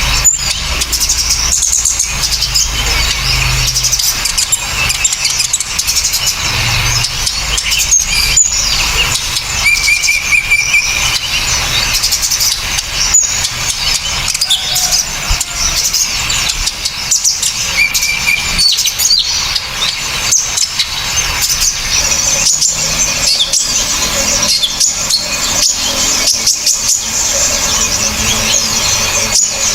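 Several small songbirds chirping and trilling at once, a dense, loud, high-pitched stream of sharp calls, short trills and clicks with no pause.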